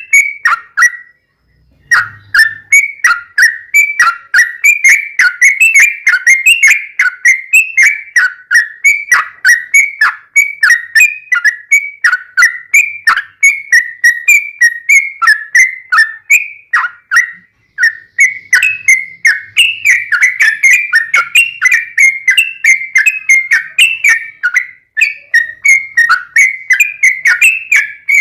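Yellow-vented bulbul (trucukan) singing vigorously in a long, rapid run of short bubbly chirps, about three or four a second, with one short break about a second in.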